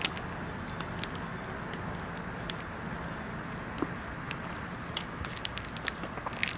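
Close-miked mouth sounds of biting into and chewing a soft cocoa-coated mochi: scattered small wet clicks over a steady hiss from the clip-on mic.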